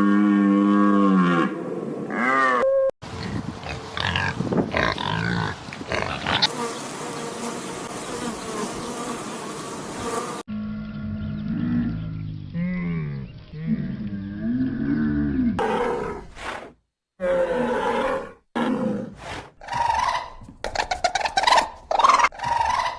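A run of short animal-call clips cut one after another: pitched, wavering calls and rough, noisy roar-like vocalizations, with quick choppy cuts near the end.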